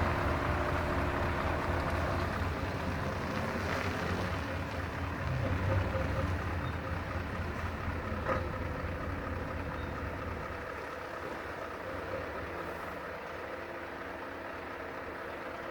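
Scania 580 S truck's 16-litre V8 diesel running with a steady low drone, easing a little quieter after about ten seconds; a single short click about eight seconds in.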